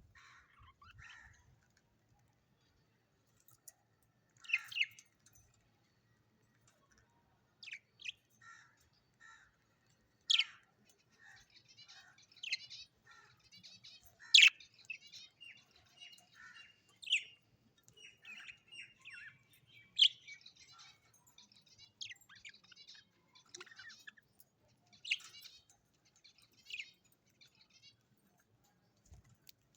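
Small parrots calling: loud, sharp chirps every few seconds over a soft, rapid twittering chatter, with runs of short repeated notes in the middle stretch.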